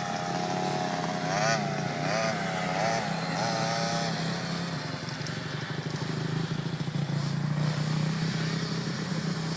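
Motocross dirt bike engine running, its pitch rising and falling in four quick revs in the first half, then running steadily.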